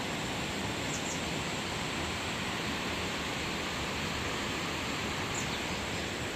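Steady rushing noise of running water, with two short high chirps about a second in and another near the end.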